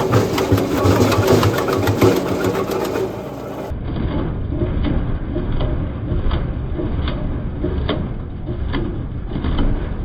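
Gasoline wood chipper running, its engine droning under repeated sharp knocks. A little over a third of the way in the sound changes abruptly and becomes duller, with the knocks coming irregularly, about one or two a second.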